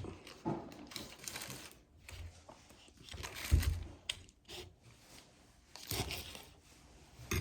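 Paper food wrapping being handled, crinkling and tearing in several short rustles.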